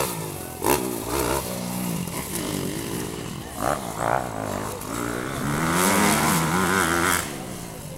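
Motocross motorcycle engines revving up and down as the bikes ride the track, with the pitch rising and falling repeatedly; the loudest run of revs builds about five and a half seconds in and drops off about a second before the end.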